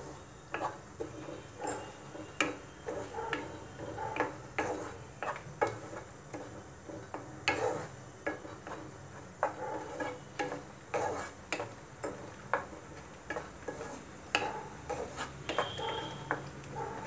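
A spatula stirring thick masala paste in a non-stick kadai, knocking and scraping against the pan about twice a second in an uneven rhythm.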